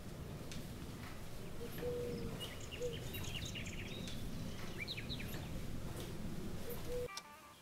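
Outdoor ambience of small birds chirping over a steady low rumble, with the chirps busiest in the middle. It cuts off abruptly near the end.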